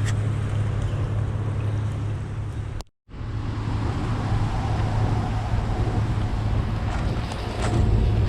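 Steady vehicle running noise, a low hum under road and wind noise, cut off abruptly for a moment about three seconds in before carrying on as before.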